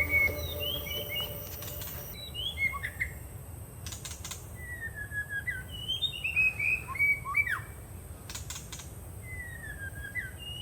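A songbird singing in the forest, giving short whistled phrases of sliding, falling notes every second or two, over a steady high-pitched background hum.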